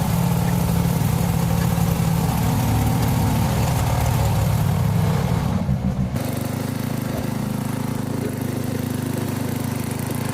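1997 Mastercraft 12.5/38 lawn tractor's Briggs & Stratton engine running steadily. About six seconds in the sound dips briefly, then carries on evener and a little lower in pitch.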